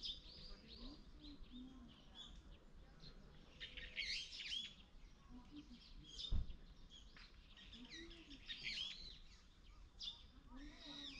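Small birds chirping in several short bursts of quick, high calls, with a single sharp knock a little past the middle.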